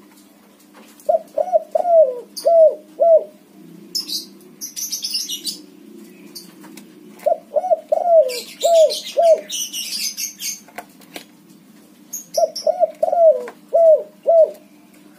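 Spotted dove cooing: three phrases of five coos each, several seconds apart. High chirping of other birds comes twice between the phrases, over a steady low hum.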